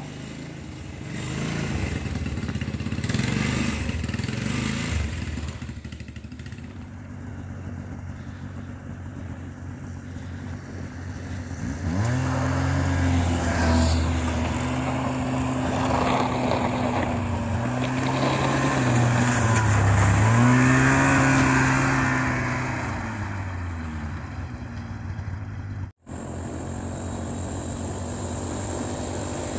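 Snowmobile engine running, its pitch rising and falling as it revs, loudest in the middle stretch.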